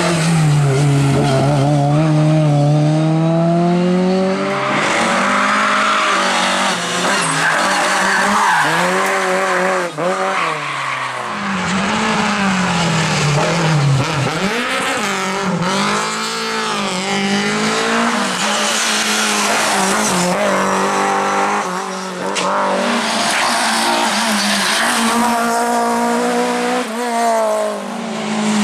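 Rally cars driven hard on a special stage: engines revving up and dropping back again and again through gear changes and corners, with tyre squeal and skidding.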